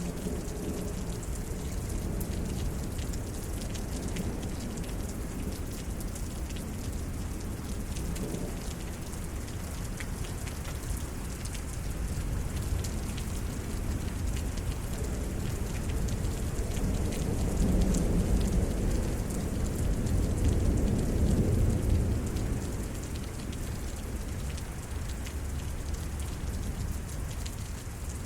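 Steady rain falling in a thunderstorm. A low rumble of thunder swells and fades in the latter half.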